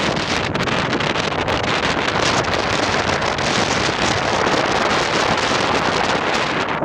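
Strong wind buffeting the microphone: a loud, steady rush of noise with slight gusty flutter.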